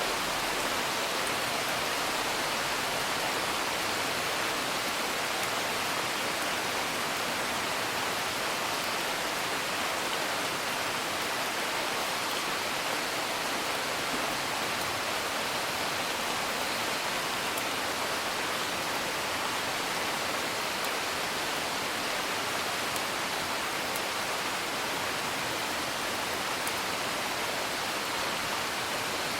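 Steady rain heard from indoors, an even, unbroken hiss, with a few faint crackles from a wood fire.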